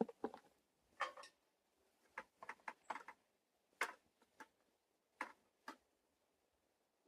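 Irregular light clicks and knocks, a dozen or so in uneven clusters, like small hard objects being handled close by.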